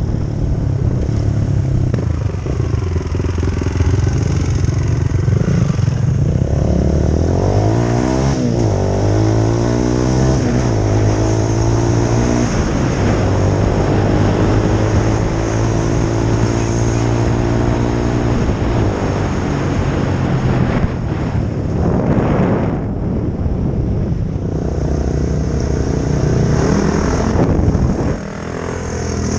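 2004 Honda CRF450R dirt bike's single-cylinder four-stroke engine running, its pitch rising and falling with the throttle, with a brief drop in level near the end.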